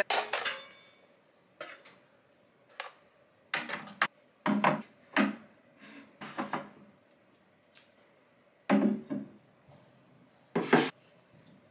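Scattered knocks and clunks of small hard objects being set down on and moved about a cube shelf unit, about a dozen separate sounds with short handling noises between them.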